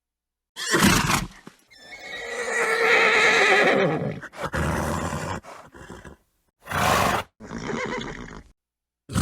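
Horse sounds: a short breathy burst, then a long whinny with a wavering, shaking pitch lasting about two seconds. After it come several short breathy snorts, split by sudden cuts to silence.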